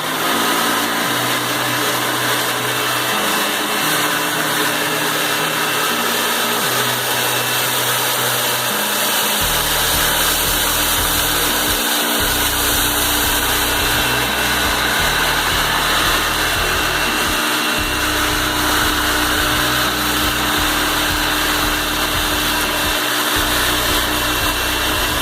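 Hoover Elite High Performance upright vacuum cleaner running steadily at full power while it is pushed over carpet. It starts at the very beginning.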